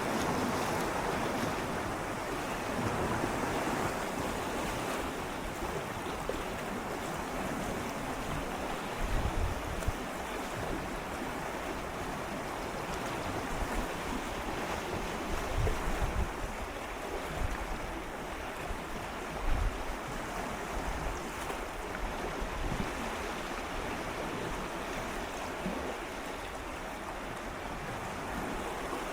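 Gentle sea waves swirling and lapping against shoreline rocks: a steady wash of water with no breaking surf, broken by a few brief low bumps.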